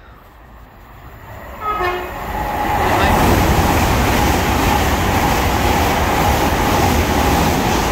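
LNER Azuma (Hitachi Class 800-series) express train passing through the station at speed. A short horn note sounds as it approaches. About two seconds in, the rush of wheels and air builds up, then holds loud and steady with a thin whine as the coaches go by.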